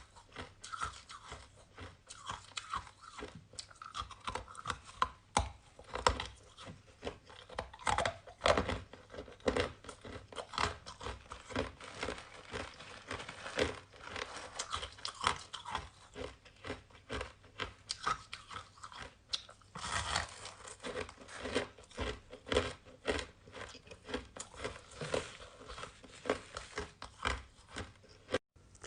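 Close-up chewing and crunching of purple-flavoured shaved ice, a continuous run of sharp crackling crunches.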